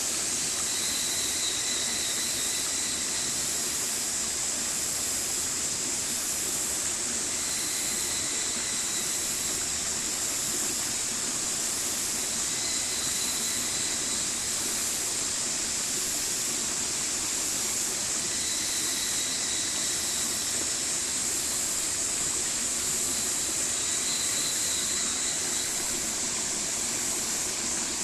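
Stream water flowing steadily, an even rushing hiss. A faint high tone recurs every few seconds over it.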